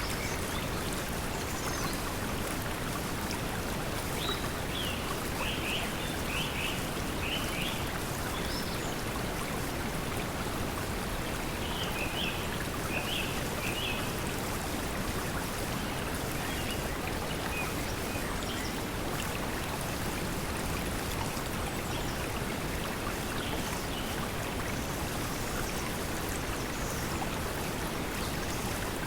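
Steady pink noise mixed with flowing stream water, making an even, unbroken hiss. Short clusters of high bird chirps come in a few seconds in and again near the middle.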